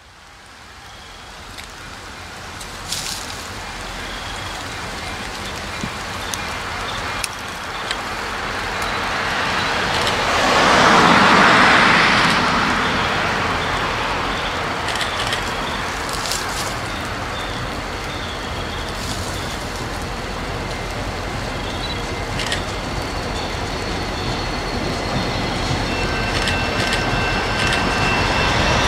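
Diesel locomotive of an approaching freight train, a steady rumble growing slowly louder. A broad rushing swell rises and falls about eleven seconds in, and a thin high whine joins near the end.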